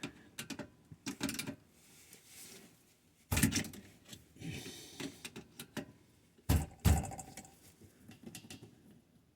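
Light clicks and clatter of tools and small metal parts being handled, with a sharper knock about three seconds in and two more close together near seven seconds.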